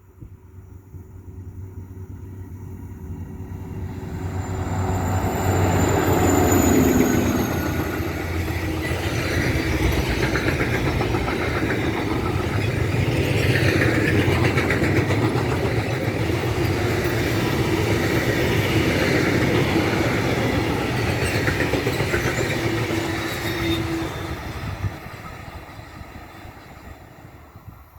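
DB Cargo 4185 locomotive hauling a freight train past at speed. It approaches and is loudest about six to seven seconds in, with a falling high tone as it passes. The wagons follow with steady rolling noise and rhythmic wheel clatter over the rail joints, fading away near the end.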